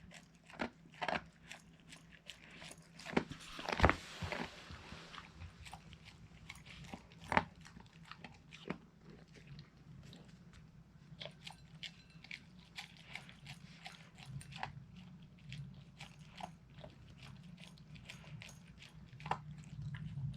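Siberian husky crunching and chewing grilled mackerel, in irregular bites with a couple of louder crunches.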